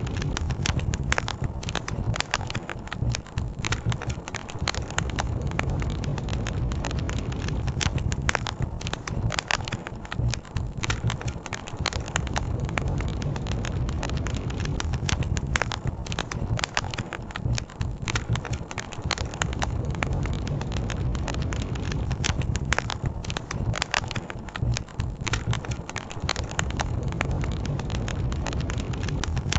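Campfire crackling and popping continuously in quick, irregular snaps, over a steady low rush of river water.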